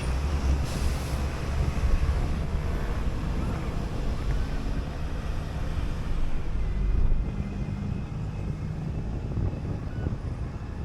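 City bus on the move: a steady low engine drone mixed with road and wind noise, swelling and easing slightly as it drives.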